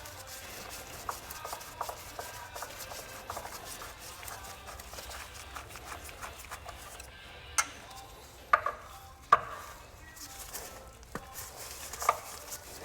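Hand work on the Humvee's parts: steady rubbing and scraping. There are three sharp knocks a little past the middle, the last the loudest, and one more near the end.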